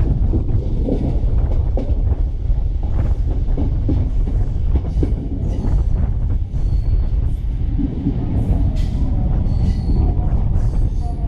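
Passenger train coaches rolling into a station, heard from aboard: a steady heavy rumble with scattered clicks and knocks from the wheels over rail joints and points, and a couple of brief high wheel squeals in the second half.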